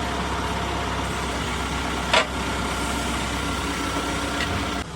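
An engine running steadily at idle, with a single sharp knock about two seconds in.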